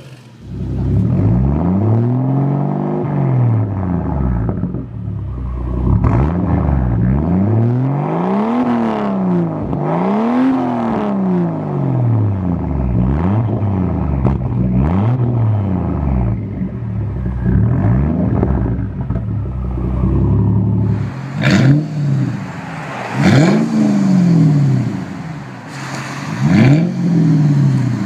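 Lexus LFA's V10 engine revved over and over, its exhaust note climbing and falling again about every two seconds, then a few quicker, sharper blips near the end.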